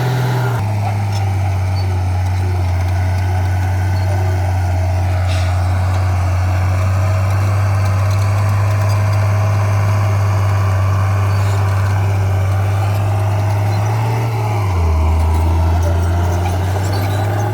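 Diesel engine of heavy earthmoving equipment running steadily. Its low note drops near the end, as if lugging under load, then picks up again.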